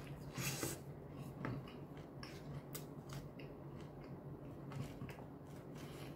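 A bite into a soft bread roll, then close-up chewing: short crisp clicks and smacks scattered through, busiest in the first second and a half.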